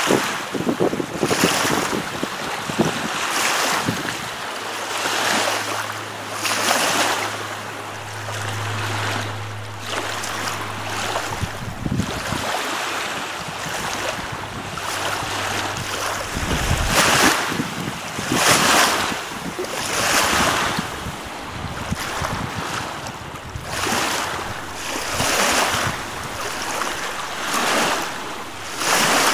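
Wind-driven lake waves washing in, swelling into a rush every second or two, with wind on the microphone. A low steady hum runs from about four seconds in until about sixteen seconds.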